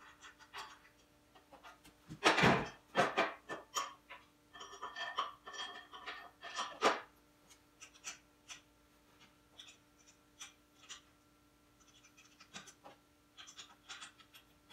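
Metal parts, bolts and tools being handled while a steel motorcycle dolly's tray halves are bolted together with a 14mm socket and wrench: scattered clicks, knocks and ringing clinks. A loud clatter comes a little past two seconds in.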